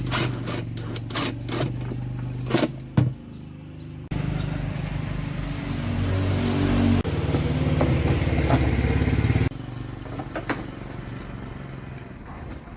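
A machine's motor running steadily, with sharp metallic clicks and knocks over it, broken by abrupt changes about four, seven and nine and a half seconds in.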